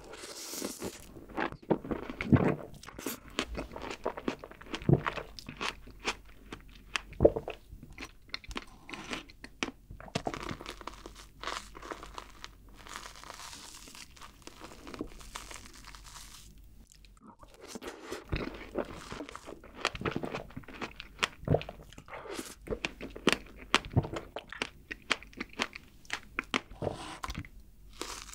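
Close-miked chewing of fresh strawberries with whipped cream: crisp, wet bites and mouth smacks in two long stretches, with a short pause a little after halfway.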